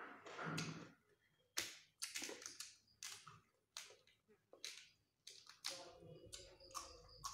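Crunchy chewing and biting of raw cucumber slices close to the microphone: irregular sharp crunches, one or two a second.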